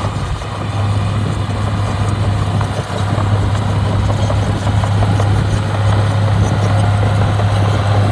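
Heavy diesel engine of landfill earthmoving equipment running steadily, a constant low drone with light rattling over it.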